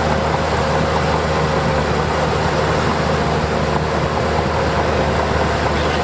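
Diesel engine of heavy earthmoving machinery running steadily at an even speed, with a faint whine above its low hum.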